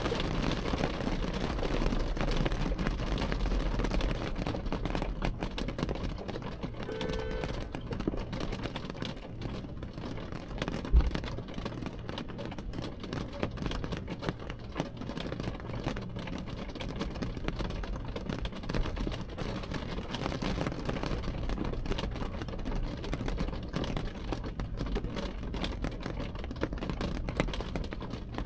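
Rain pattering steadily on window glass, heard from behind the glass, with a low rumble underneath. A single dull thump about eleven seconds in is the loudest sound.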